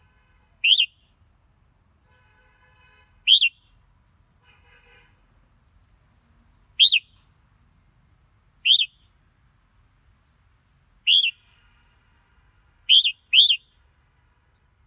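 Red-whiskered bulbul calling: short, loud, arching whistled notes, seven in all at irregular intervals, the last two in quick succession. Fainter, softer warbling notes sit between the first few calls.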